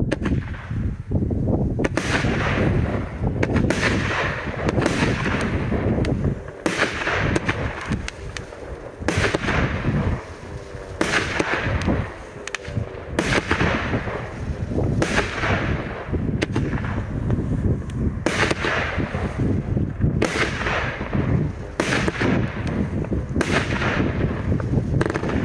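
Funke Blinkweiden Dahlien fireworks battery firing shot after shot: a loud bang about once a second, each trailing off before the next. The sequence keeps going without a break.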